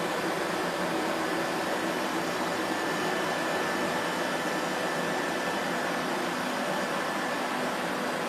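Vacuum cleaner motor running steadily with an even whoosh of airflow and a faint steady whine, no change in pitch or level.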